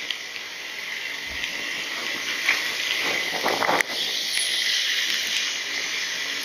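Steady hiss of heavy rain and motorcycle tyres on a flooded road, with a few sharp ticks.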